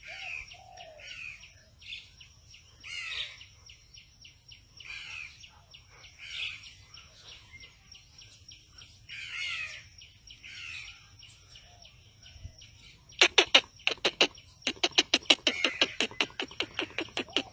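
Birds chirping in short calls over a faint steady high tone. About thirteen seconds in, a fast run of loud, sharp sounds starts, several a second, and continues to the end.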